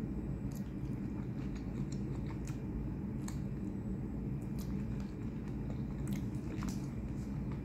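Close-up chewing and biting of cooked shrimp, with scattered short wet mouth clicks, over a steady low hum.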